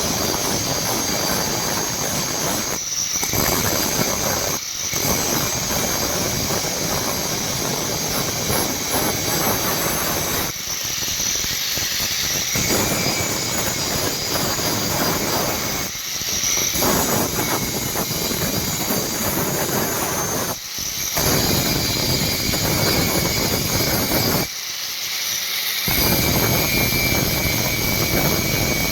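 Power grinder running against steel with a high squeal over a dense hiss, broken by several short gaps.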